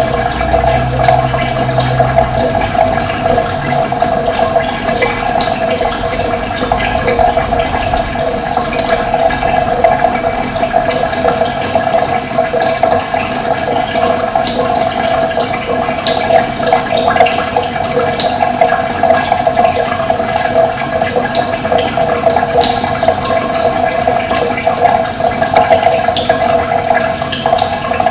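Steady rushing of running water, with short bird chirps over it now and then.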